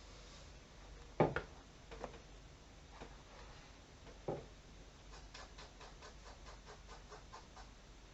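Faint knocks and clicks: a few separate light knocks, then a quick run of soft clicks, about four a second, over a quiet room.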